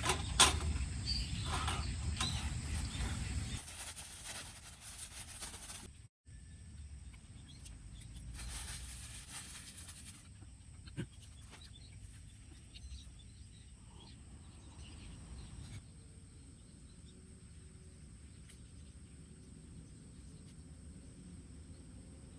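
Outdoor morning ambience with scattered faint bird chirps and a steady thin high tone. It opens with a few seconds of low rumbling noise and a sharp click, then drops out briefly and settles into the quieter ambience.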